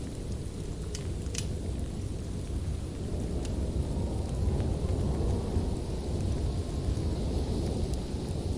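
Wood fire burning in a fireplace: a steady low rumble of flames with a few sharp crackles and pops, two close together about a second in and another near three and a half seconds.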